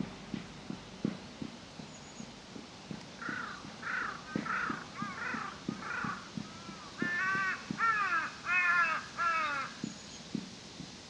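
Crow cawing: a run of about five calls, then four louder, harsher caws in quick succession. Soft, regular low knocks sound underneath.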